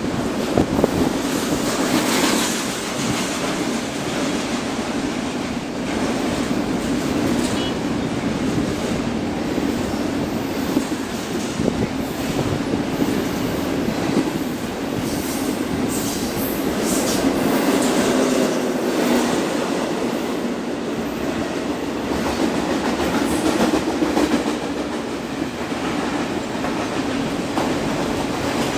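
A train passing on the tracks: a steady rumble of wheels on rail with the clickety-clack of rail joints.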